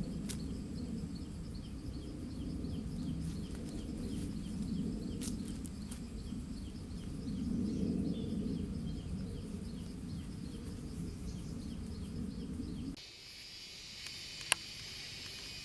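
Outdoor rural ambience: a low rumble of wind-like noise with small high chirps repeating a few times a second, then an abrupt change to a steady high insect drone with a single sharp click near the end.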